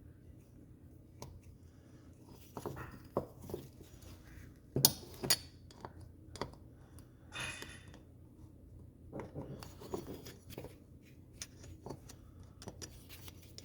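Scattered clicks, taps and clinks of small metal power-valve parts handled on a workbench as seals are pressed into a Ski-Doo E-RAVE power valve housing. Two sharp clicks about five seconds in are the loudest.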